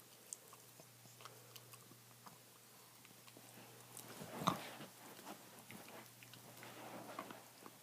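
A dog gnawing on a bone: faint, scattered crunches and clicks of teeth on bone, with one louder crunch about four and a half seconds in.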